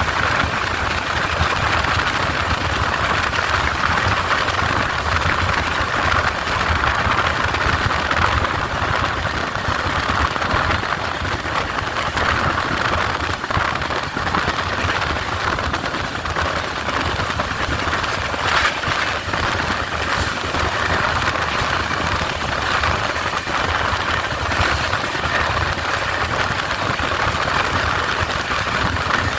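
Steady running noise of an express train moving at speed, an even rumble and rush without a rise or fall, with one brief sharp knock a little past the middle.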